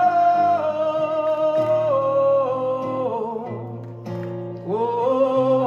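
Live rock band with a male singer holding a long wordless 'oh' that slides slowly down in pitch over steady bass notes; a new 'oh' swoops up near the end.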